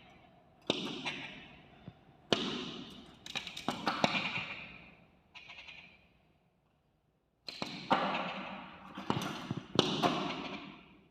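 Repeated sharp taps and thuds, some single and some in quick clusters, each trailing off over about a second, with a pause of a second or so near the middle.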